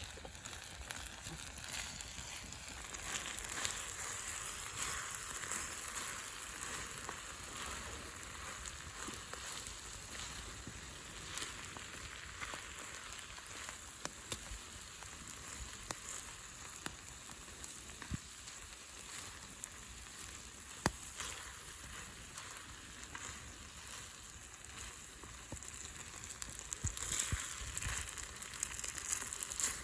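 Yakisoba noodles and vegetables in liquid sauce sizzling in a pan over a wood fire, with a few sharp pops now and then.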